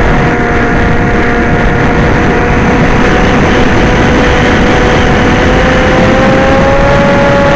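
Electric motor and propeller of an RC FPV aircraft heard from onboard: a steady whine over heavy wind rush. Its pitch creeps up a little in the last two seconds.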